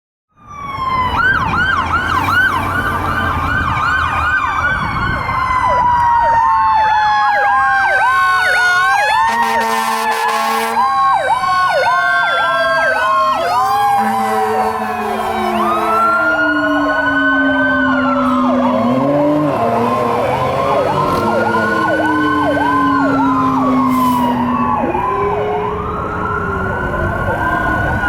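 Fire engine sirens responding: a fast electronic yelp repeating several times a second, overlapped by long, slowly falling and rising wails. Deep air horn blasts come in, the longest about ten seconds in.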